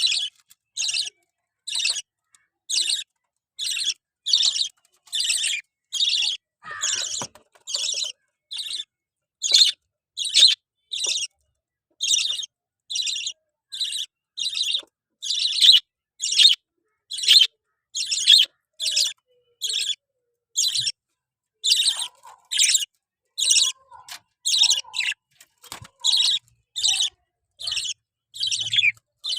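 Lovebird calling in a steady run of short, shrill chirps, about three every two seconds, with no pause.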